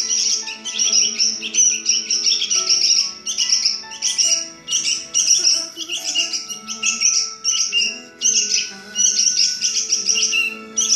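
A songbird singing in runs of rapid, high chirping notes, broken by short pauses, over steady background music.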